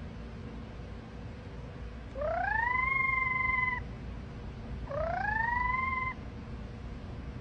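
A cat meowing twice: two long drawn-out meows that rise in pitch and then hold, the first a little longer than the second.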